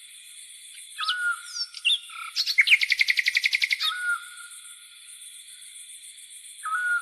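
Songbirds calling in a wild-nature soundscape: short whistled notes that drop and then hold, three times, and a loud rapid trill of about a dozen notes a second lasting roughly a second and a half in the middle. Beneath them, insects chirr steadily in a high, finely pulsed drone.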